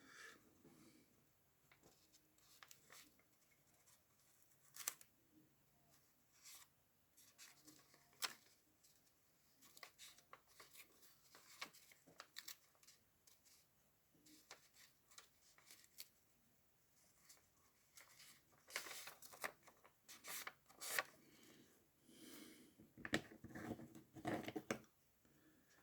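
Faint handling of paper and document repair tape: scattered soft clicks and rustles, coming thicker in the last several seconds.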